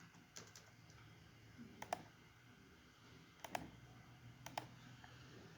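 Computer mouse clicking: about four pairs of short, sharp clicks spaced a second or so apart, over a faint steady low hum.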